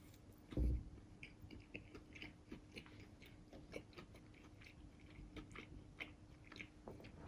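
Faint mouth sounds of a person chewing a bite of panko-breaded prawn katsu with rice, with many small scattered clicks. A louder low thump about half a second in.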